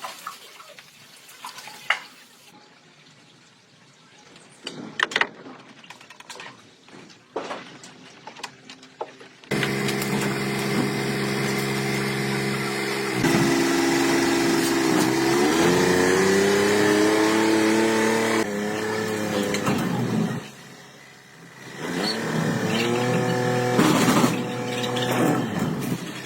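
Scattered light clicks and knocks, then about ten seconds in an engine starts running. Its pitch rises as it revs around the middle, it drops away briefly near the end, and then it runs again.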